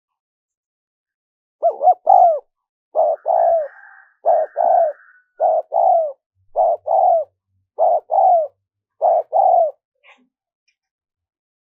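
Spotted dove cooing: a series of about seven short two-note coos, starting a couple of seconds in and ending shortly before the last two seconds.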